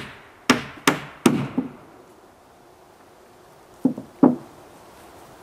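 Hammer blows on wood: a quick run of about five strikes at roughly three a second, then a pause of about two seconds and two more strikes.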